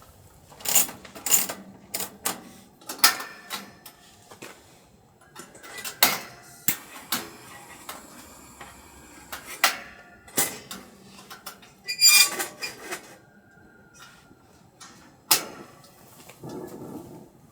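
Dishes and utensils being handled, giving an irregular series of sharp clinks and knocks, a few of them briefly ringing.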